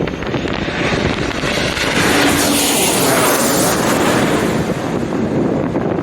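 Airliner passing low overhead as it comes in to land, its engine noise building to a peak about halfway through and then easing slightly.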